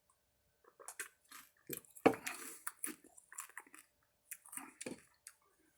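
A person chewing a mouthful of dried tarantula body, with irregular crunching and wet mouth sounds, loudest about two seconds in.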